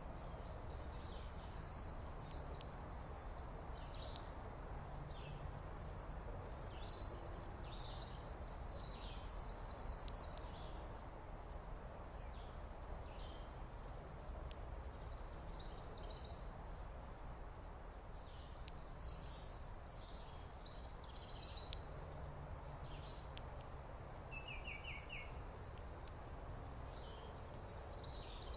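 Small songbirds chirping and giving short rapid trills again and again, high-pitched, over a steady low background rumble.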